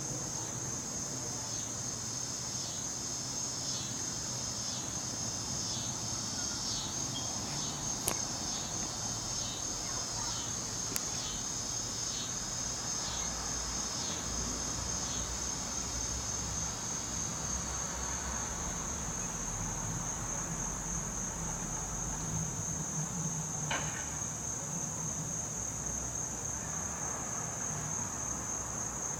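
Steady, high-pitched chorus of crickets. Over the first half a series of short chirps repeats about every half second, and a few sharp clicks stand out.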